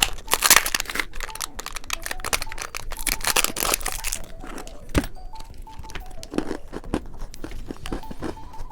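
Plastic candy wrapper being torn open and crinkled. Louder bursts of crackling come about half a second in and again around three to four seconds, with many small crackles between.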